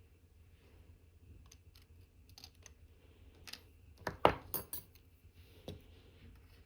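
Small metal clicks and taps of watchmaker's tools, such as tweezers, on watch movement parts, with a quick cluster of sharper clicks about four seconds in and one more click a little later.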